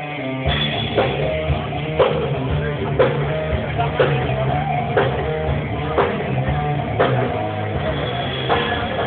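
Live rock band playing: drum kit hits about once a second over sustained electric guitar and bass notes, heard through a phone microphone.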